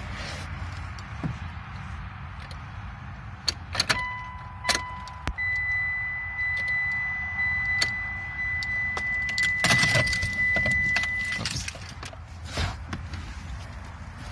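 Car keys jangling and clicking in the ignition of a 2008 Mitsubishi Lancer while a steady high electronic warning tone sounds for several seconds, then stops. No engine cranks: the car has a no-crank fault despite good battery voltage.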